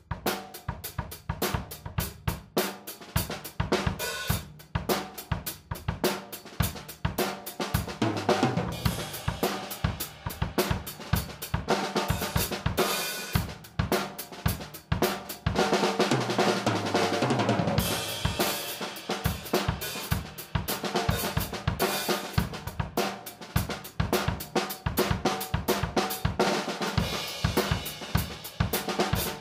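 A 1996 Pearl Export Select five-piece drum kit played as a continuous groove, with snare, bass drum, hi-hat and cymbals, in a dense run of strokes.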